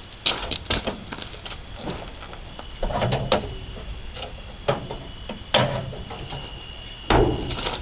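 Steel hood of a 1968 International Harvester 1300 truck being worked open by hand, with a series of metallic clunks and knocks from the hood and its latch. The two loudest bangs come near the end.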